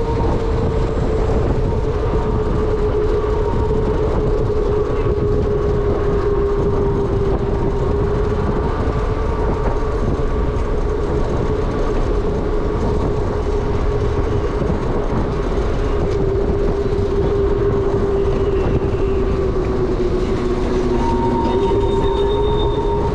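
Wind rumbling over the microphone while riding an ONYX RCR electric motorbike, with a steady motor whine that drifts slightly in pitch as the speed changes.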